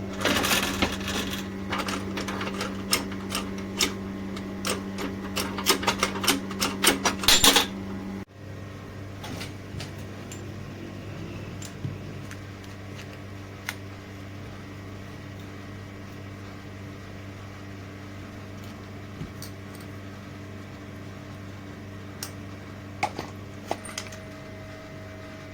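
Electric power-tool motor running with a steady hum and rapid irregular rattling and clicking, switched off about 8 seconds in. After that a quieter low steady hum remains, with a few isolated clicks.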